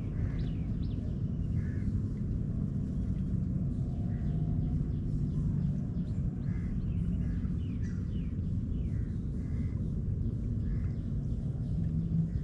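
A steady low rumble with birds calling over it: many short, high chirps that fall in pitch, repeating through the whole stretch.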